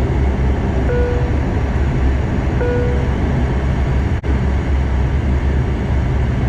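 Cabin drone of a Bombardier DHC8-Q400 turboprop's Pratt & Whitney PW150A engines and propellers, a steady low rumble with hiss. Two short beeps sound in the first three seconds, and the sound cuts out for an instant about four seconds in.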